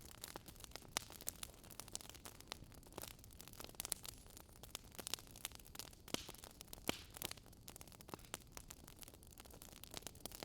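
Faint wood fire crackling: irregular sharp pops and snaps, several a second, over a soft steady hiss.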